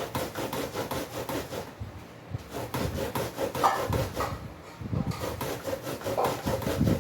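Fresh ears of corn being scraped on a metal hand grater, a steady run of quick rhythmic rasping strokes as the kernels are grated off the cob.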